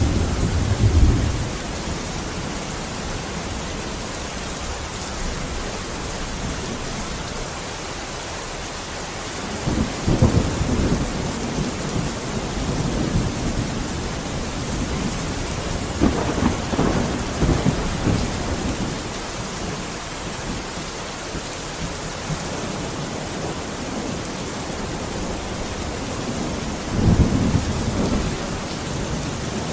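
Steady rain with rolls of thunder: low rumbles swell at the start, again about ten seconds in, around sixteen seconds, and near the end, over the unbroken hiss of the rain.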